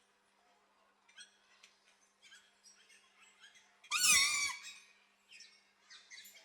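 Green-winged macaw giving one loud, harsh squawk lasting under a second, about four seconds in, over faint scattered chirping of small birds.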